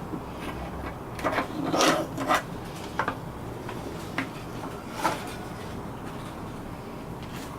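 Handling sounds of small parts being worked by hand: scattered light clicks and knocks, and a brief rubbing scrape about a second in.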